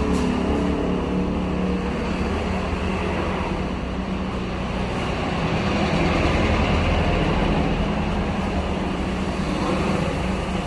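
A steady low mechanical hum with an even hiss over it, running without a break.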